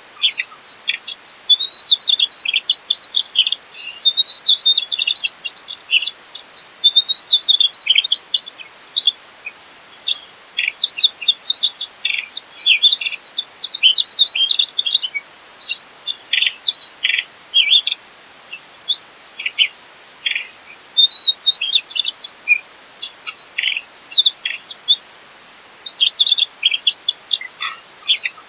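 Mugimaki flycatcher singing without a break: a fast, jumbled stream of high chirps and quick up-and-down twitters.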